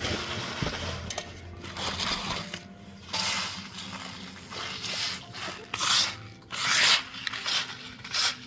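Repeated rubbing and scraping, with louder swells about three, six and seven seconds in.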